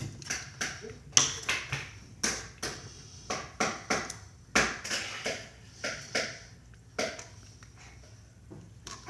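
Slime being squeezed and pressed by hand, giving irregular sharp pops and squelches from trapped air, quieter for the last couple of seconds.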